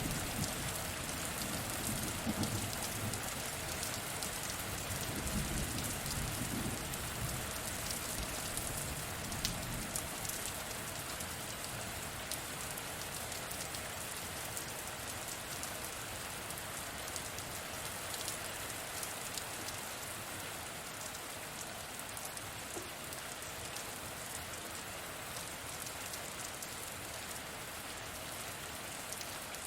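Steady rain falling, with a low rumble of thunder dying away over the first several seconds.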